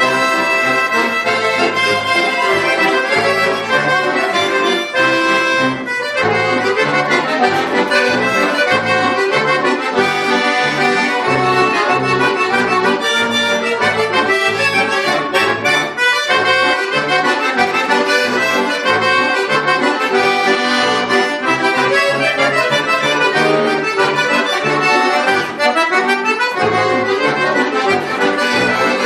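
Bayan (Russian chromatic button accordion) playing a piece of music, with a steady pulsing bass under chords and melody.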